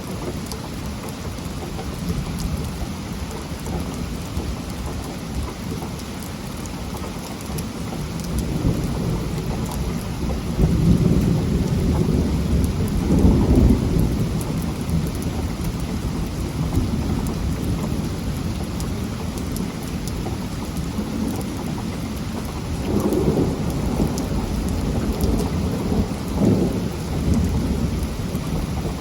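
Heavy rain falling steadily, with rolling thunder rumbling twice, the stronger roll about ten to fourteen seconds in and another in the last few seconds.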